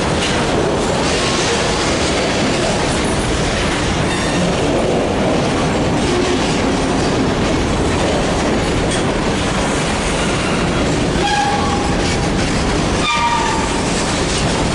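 Railroad cars rolling past close by with a steady rumble and the clatter of wheels over the rails, and a few short wheel squeals near the end.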